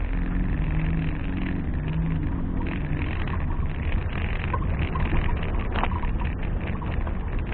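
Off-road 4x4's engine running steadily with a low rumble. From about two and a half seconds in there are irregular clicks and knocks.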